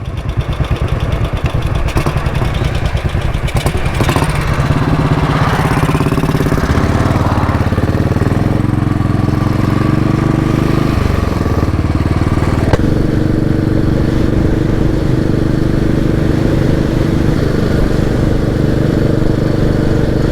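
Royal Enfield Bullet 500 single-cylinder motorcycle engine pulling away and accelerating under the rider, its pitch climbing and then dropping at two gear changes about eleven and thirteen seconds in, before settling into a steady cruise. Wind rushes past the microphone throughout.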